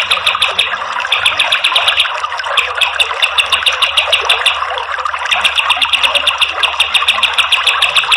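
Kapas tembak songbird singing its rapid-fire 'tembakan' song: bouts of fast, evenly repeated high notes, about ten a second, broken by short pauses, over a steady hiss.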